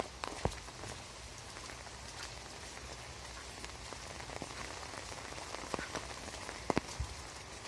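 Steady rain, an even hiss with scattered sharp drops tapping close by, two louder taps in quick succession near the end.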